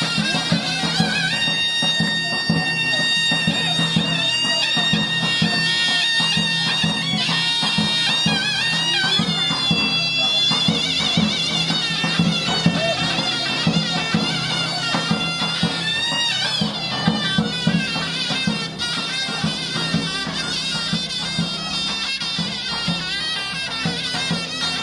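Folk dance music played on a loud, shrill reed pipe with a wavering melody over a steady drone, accompanied by regular drumbeats.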